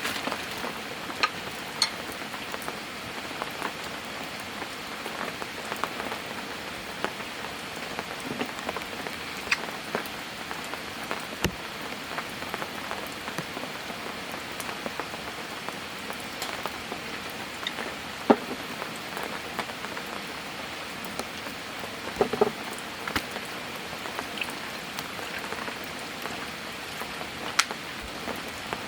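Steady rain with a continuous hiss and scattered louder individual drops striking nearby, the sharpest about two-thirds of the way in.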